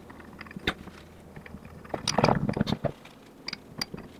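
Ratcheting turnbuckle top link being handled and worked as its threaded ends are greased: scattered metal clicks, with a short burst of clicking and scraping about two seconds in.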